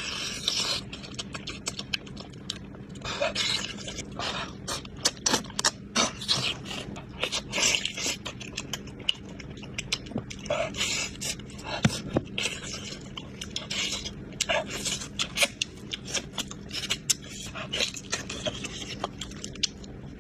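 Close-miked eating of ox trotters: chewing and biting, heard as a dense, irregular run of short clicks and smacking bursts.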